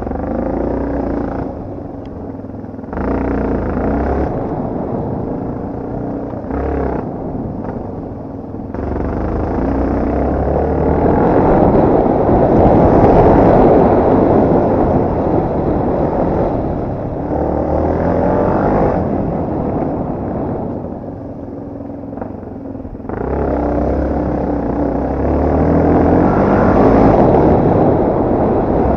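Yamaha TT250R Raid's single-cylinder four-stroke engine under riding, revving up and easing off again and again. It gets louder around the middle and again near the end.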